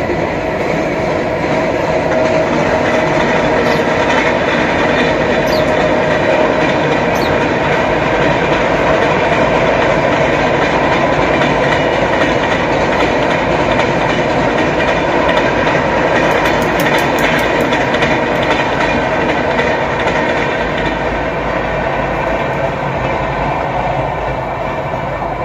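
Passenger train running along the track, a steady noise of wheels on rails.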